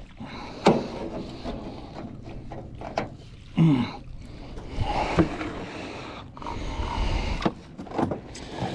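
Scattered knocks and clunks in a small aluminum boat as a freshly caught blue catfish is handled, with a short falling grunt about three and a half seconds in.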